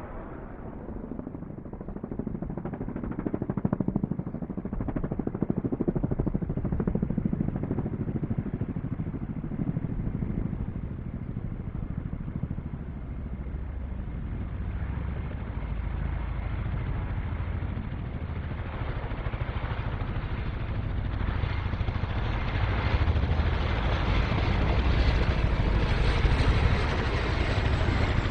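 Jet aircraft engine noise: a steady rumble that grows gradually louder and brighter as the jet approaches.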